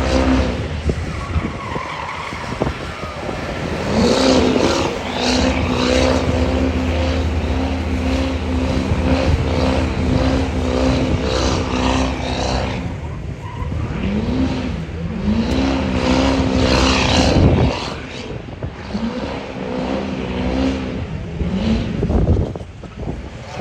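High-horsepower diesel truck engine held at high rpm for several seconds, then revved up and down repeatedly, with tyre noise.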